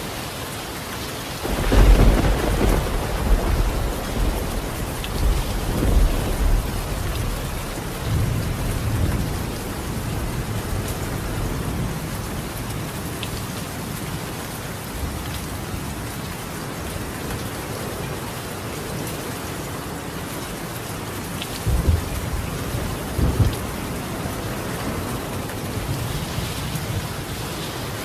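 Steady heavy rain drumming on a roof. A thunderclap breaks about a second and a half in and rumbles on for about ten seconds, and two shorter rolls of thunder follow near the end.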